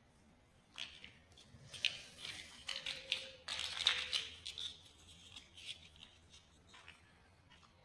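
Small plastic building bricks being handled and fitted together: scattered sharp clicks, with a denser stretch of crackly rustling and clicking in the middle.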